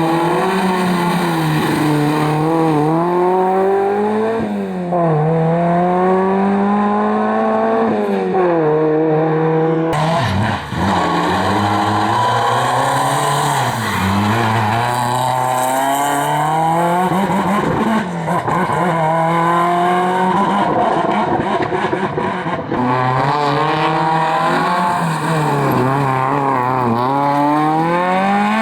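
Rally car engines at full throttle, revving up through each gear and dropping back at every shift, in several short passes cut together with abrupt changes.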